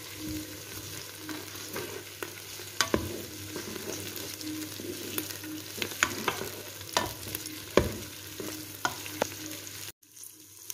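Tomatoes and onions sizzling as they fry in ghee in an electric pressure cooker's pot on its stir-fry setting. A utensil stirring the pot makes sharp clicks and scrapes every second or so. The sound cuts out abruptly near the end.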